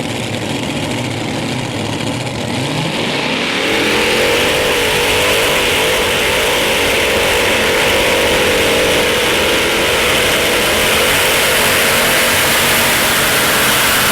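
Modified pulling tractor's engine revving up about three seconds in, then running at a steady, loud full throttle as it pulls the weight sled down the track.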